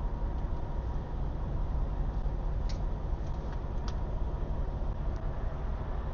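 Steady low rumble of an idling diesel engine, with a couple of light clicks partway through.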